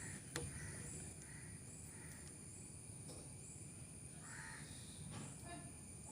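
Faint bird calls repeating in the background, with a single light click about half a second in.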